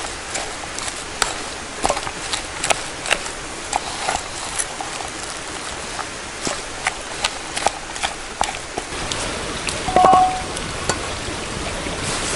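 Wood campfire crackling, with irregular sharp pops over a steady hiss, and a brief ringing clink about ten seconds in.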